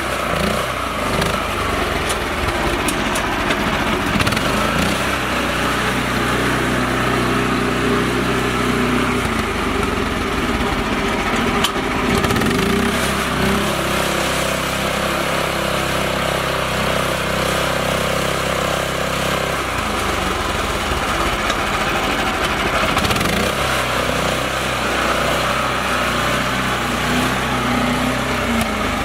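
Mini tractor's small engine running steadily under load, its pitch shifting up and down a few times.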